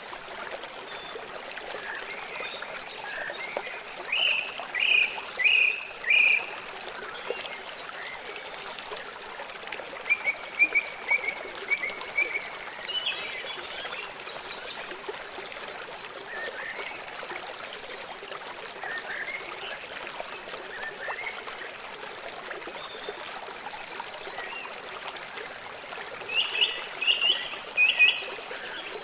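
Forest ambience: a steady rush of running stream water. Over it, short high chirping animal calls come in quick series, in three bouts: a few seconds in, around ten seconds in, and near the end.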